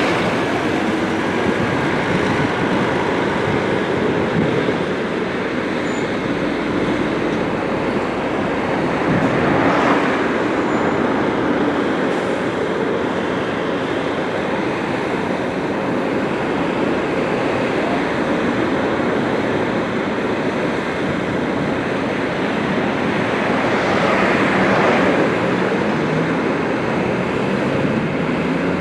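Scania-chassis Busscar Busstar DD double-decker bus running, a steady heavy rumble of engine and road noise that swells a few times, with the engine note rising near the end.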